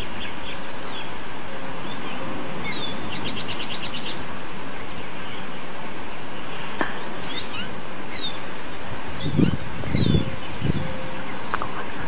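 Small birds chirping in short whistles over a steady background hiss, with a quick trill of rapid notes about three seconds in. A few low thuds come after about nine seconds.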